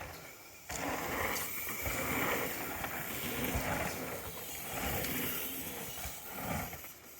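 Mountain bike riding over a dirt trail: tyre rumble and rushing air on the microphone, starting abruptly about a second in.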